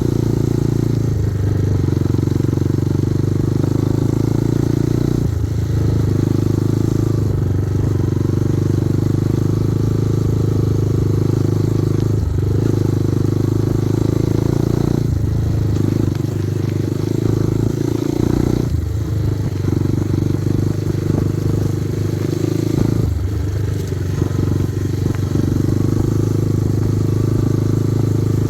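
Kovi Advance 250 motorcycle engine running steadily under way, its note dipping briefly every few seconds.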